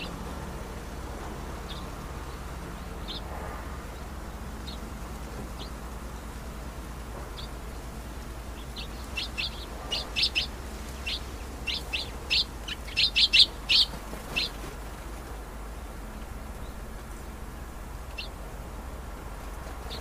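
Birds chirping with short, high chirps: a few scattered single notes, then a quick run of repeated chirps from about nine to fifteen seconds in, loudest near the end of the run, over a steady low background noise.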